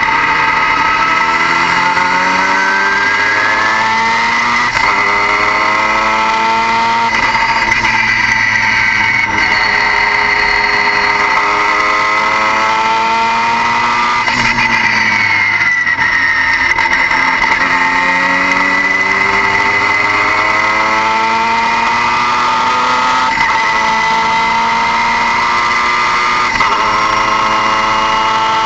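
Car engine pulling through the gears: its pitch climbs for a few seconds, drops at each shift and climbs again, with one long fall in pitch in the middle. A steady high whine runs underneath throughout and does not follow the engine's pitch.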